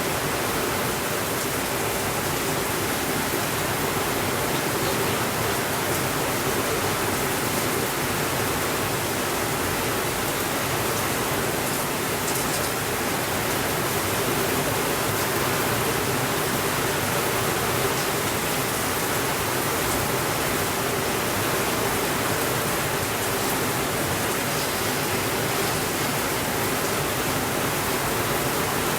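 Steady rainfall, an even hiss that holds at one level throughout, with no thunder.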